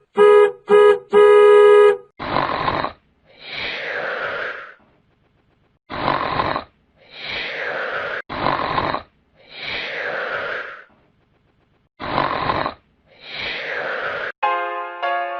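Cartoon-style snoring sound effect: four snores, each a short rasping in-breath followed by a longer out-breath that falls in pitch. Short electronic beeps come first, and piano music starts near the end.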